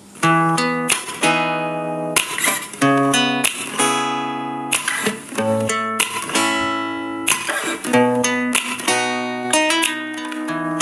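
Acoustic guitar music: a run of strummed and plucked chords, each struck sharply and left to ring, starting just after the beginning.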